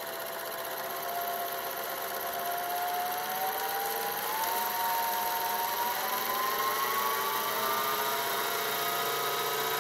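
Janome School Mate S-3015 sewing machine's motor running under the pedal, spinning the bobbin winder to fill the bobbin with thread. Its steady whine rises gradually in pitch.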